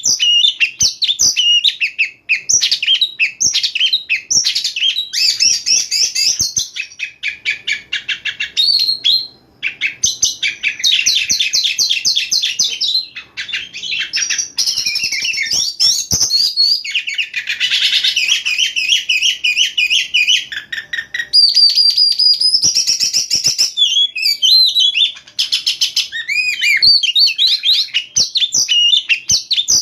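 Oriental magpie-robin singing without a break: a varied string of loud whistles, rapid trills and chattering phrases.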